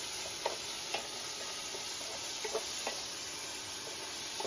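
Chopped tomatoes, onion and spices sizzling in a frying pan while being stirred with a wooden spatula, which knocks against the pan a few times.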